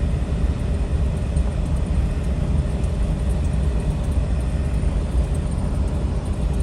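Steady low rumble of a car driving slowly, with engine and road noise.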